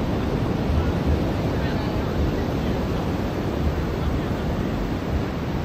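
Ocean surf washing onto a beach in a steady rush, with wind buffeting the microphone in uneven low rumbles and faint, indistinct voices of beachgoers.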